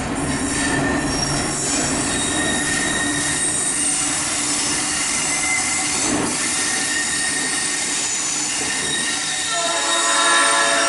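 Freight train passing, its wheels squealing steadily on the curving mountain line. A horn starts sounding near the end.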